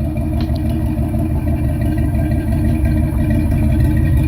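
Car engine with a loud, street-legal exhaust, idling with a steady low rumble.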